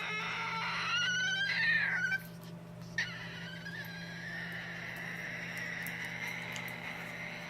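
An animal's long, pitched calls: a wavering call in the first two seconds, then a call that drops sharply in pitch and settles into a long steady note.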